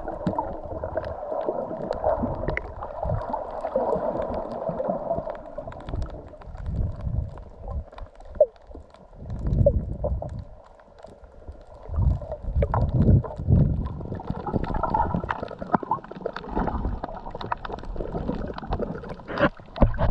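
Water gurgling and sloshing around an underwater camera, with low rumbling swells that come and go unevenly and many scattered sharp clicks.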